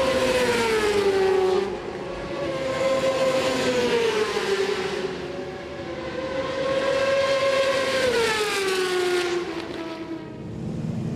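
Superbike racing motorcycles passing at high revs: a high, steady engine note that drops in pitch as each goes by, three times.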